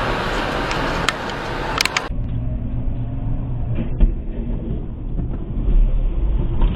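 Vehicle driving noise: a steady road and engine rumble with a few sharp clicks, changing abruptly about two seconds in to a deeper rumble.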